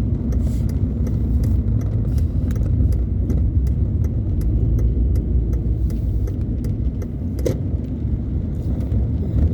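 Car interior noise while driving: a steady low rumble of engine and road, with scattered light ticks.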